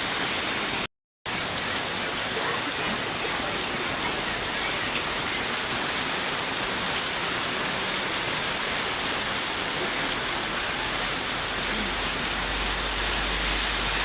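Heavy rain pouring down as a steady roar, with a very short cut to silence about a second in. A low rumble joins underneath near the end.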